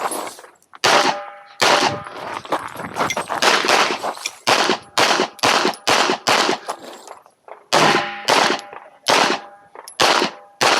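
Handgun fired in a fast, uneven string of shots, many in quick pairs, during a practical-shooting stage. A few shots are followed by a brief metallic ring.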